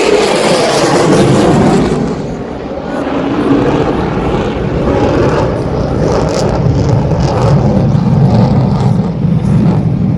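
Military aircraft flying a loud display pass, its engine noise dipping slightly about two seconds in and then building again.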